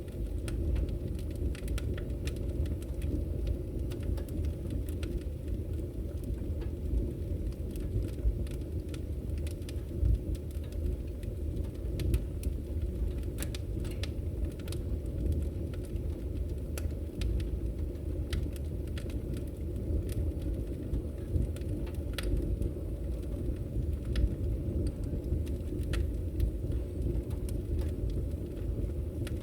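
Wood fire burning: a steady low rumble of flames with frequent sharp crackles and pops of the firewood scattered throughout.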